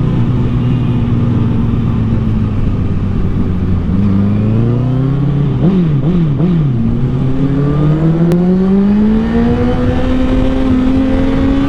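2013 Honda CBR1000RR Fireblade's inline-four engine through a Taylormade aftermarket exhaust under way. It holds a steady pitch, then about halfway through it rises and drops three times in quick succession, then climbs smoothly and steadily in pitch as it accelerates.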